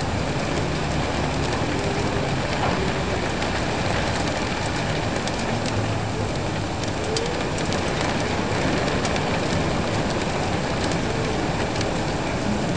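Steady rain falling on a surface, with many individual drops ticking through the hiss and a faint low rumble underneath at times.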